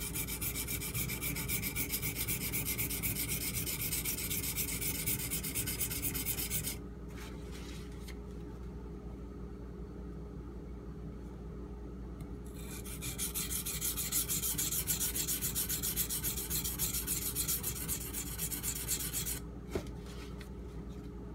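AUS-8 steel tanto blade being ground back and forth on a Shapton Pro whetstone in quick, even strokes. It comes in two spells of about seven seconds, with a pause of several seconds between them. The grinding evens out a bevel that is lopsided near the point.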